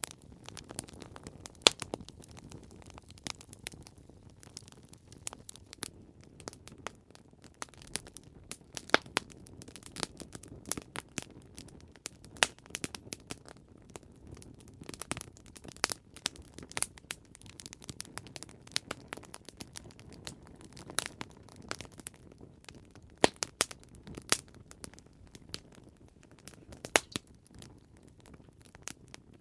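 Campfire crackling: irregular sharp pops and snaps of burning wood over a soft low hiss of flames.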